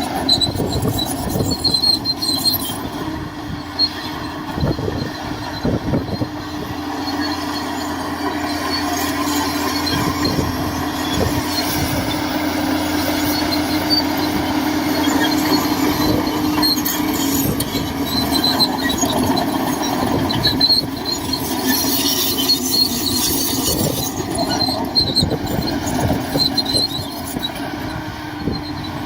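Shantui DH17C2 crawler bulldozer working: its diesel engine running steadily under the metallic squealing and clanking of its steel tracks.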